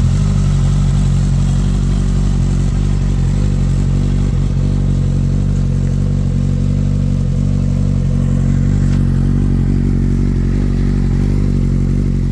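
Honda CBR650F's inline-four engine idling steadily through its exhaust, with an even, unchanging note.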